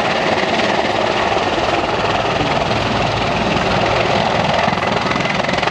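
Mil Mi-24 Hind helicopter running loud and steady, its rotor beating rapidly over the sound of its twin Isotov turboshaft engines.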